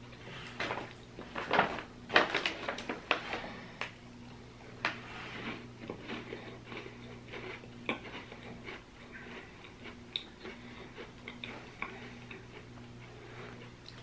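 A person biting and chewing a soft hot chocolate cookie close to the microphone: irregular crunches and mouth clicks, busiest in the first few seconds and then sparser, over a faint steady electrical hum.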